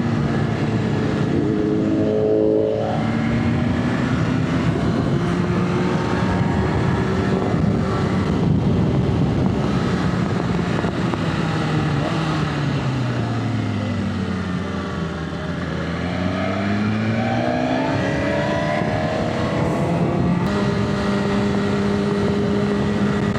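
Motorcycle engine running at cruising speed under a steady rush of wind noise. About halfway through its pitch falls as the bike slows, then rises again as it accelerates.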